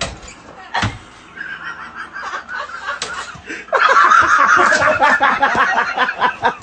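A person laughing in quick repeated bursts, getting much louder about halfway through, after a single sharp slap-like knock just under a second in.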